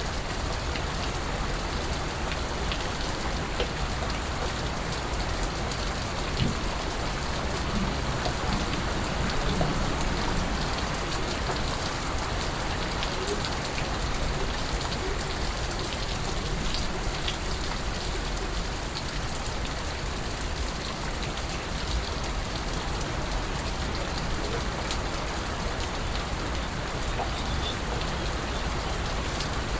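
Steady rain falling, with scattered individual drips and drops heard against the even hiss of the downpour.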